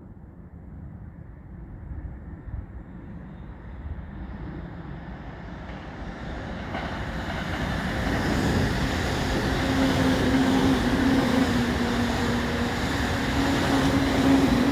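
E531 series electric train approaching, its running noise growing steadily louder and brighter, with a steady low hum joining about eight seconds in.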